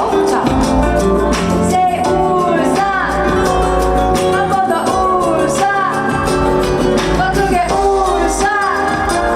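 Live concert music over loudspeakers: a band playing with a singer's voice carried over it.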